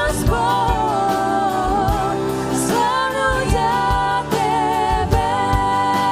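Live worship band playing a Christian worship song, with sung vocals over bass and a steady drum beat.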